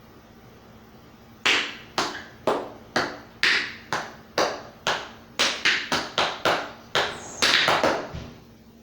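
Metal taps of tap shoes striking the floor in a tap-dance step sequence: single sharp taps about twice a second, then quicker runs of taps in the last few seconds, with no music.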